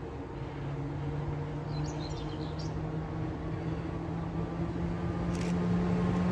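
Approaching electric locomotive hauling a passenger train: a steady low hum that slowly rises in pitch and grows steadily louder. A bird chirps briefly about two seconds in.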